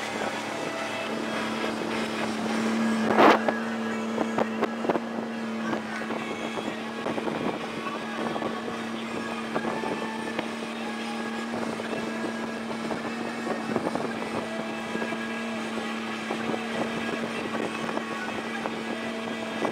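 Motorboat engine running at a steady pitch while under way, with wind on the microphone. There is a loud thump about three seconds in and smaller knocks throughout.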